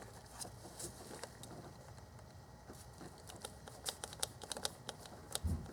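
Quiet, irregular small clicks and scratches, coming thicker a few seconds in, as a razor blade scores and cuts through a plastic fuel line, with one low thump near the end.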